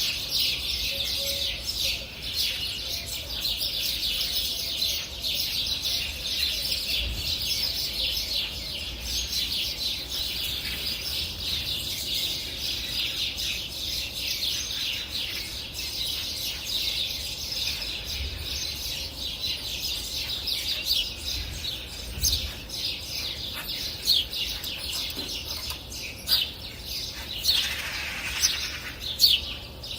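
A chorus of many small birds chirping and twittering continuously, with a few louder, closer chirps near the end.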